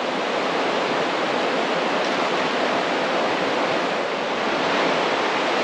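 Waterfall rushing steadily, a dense, even noise of falling water.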